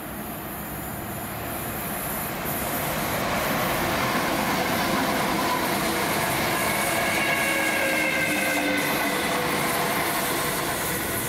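A train passing on the main line: its running noise builds over the first few seconds, holds steady, and begins to fade near the end, with a faint high-pitched whine in the middle.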